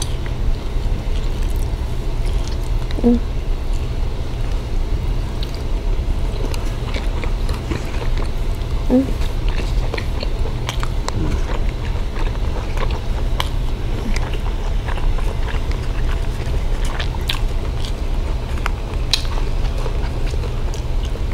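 Close-up chewing and biting sounds of people eating, with scattered wet mouth clicks and smacks and a couple of brief murmurs, over a steady low hum.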